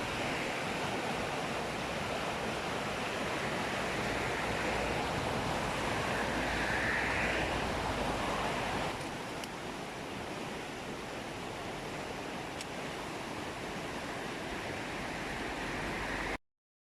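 Steady road and wind noise of a car driving. It gets a little quieter about halfway through and cuts off suddenly near the end.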